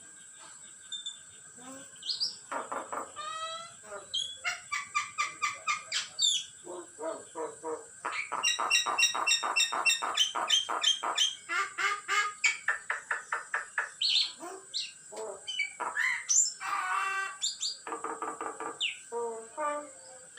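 Young pet myna (shalik) chattering in rapid runs of harsh repeated notes, mixed with short whistles, in bursts through most of the stretch.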